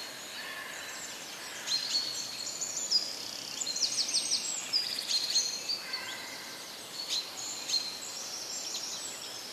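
Small birds chirping: many short, high calls overlapping, with a quick trill about four seconds in.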